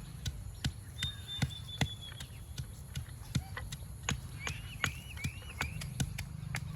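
Irregular sharp taps and knocks, a few a second, over a low hum. A bird calls over them: one held whistle about a second in, then four quick rising chirps near the end.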